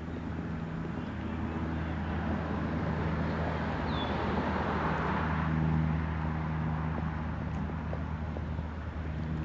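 A passing vehicle whose noise swells to a peak about halfway through and then fades, over a steady low engine hum. A single short bird chirp comes near the middle.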